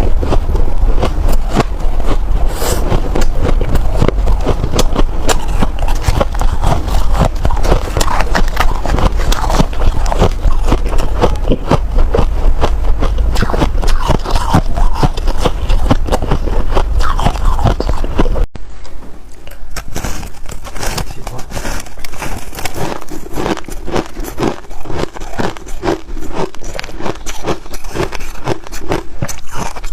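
A person biting and chewing frozen snow ice close to the microphone: a dense, continuous crunching and crackling. A low hum underneath cuts off about two-thirds of the way through.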